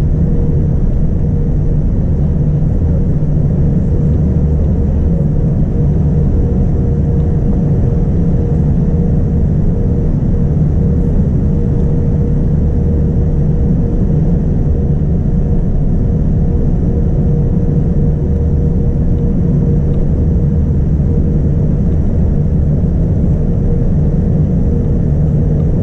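Boeing 787-9 cabin noise: a steady, unchanging low rumble of the engines and airflow with a constant hum.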